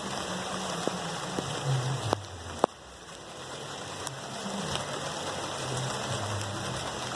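Steady rain falling on plant leaves, an even hiss with a few sharper ticks of drops in the first three seconds. A low wavering engine-like hum sits underneath.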